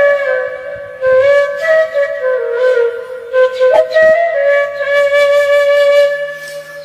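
Background music: a flute playing a slow melody of long held notes joined by short slides.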